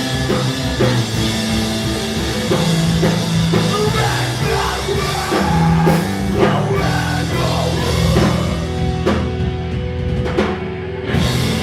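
Post-hardcore rock band playing live: distorted electric guitars, bass and a drum kit. Near the end the cymbals drop out briefly, then the full band comes back in.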